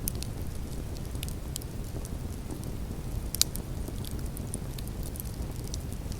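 Open fire crackling: scattered sharp pops over a low steady rumble, with one louder pop about three and a half seconds in.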